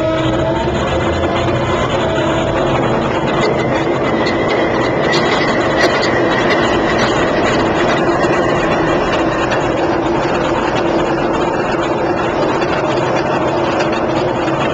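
A GE 16-cylinder diesel in a P42DC passenger locomotive running steadily just after being started, at idle with no load yet on it, with a steady whine over the engine noise.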